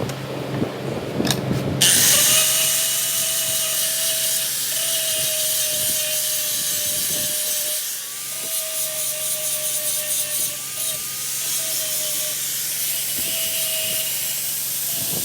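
A power tool working metal starts up about two seconds in: a loud hiss with a steady whine under it, dipping briefly around the middle and then running on.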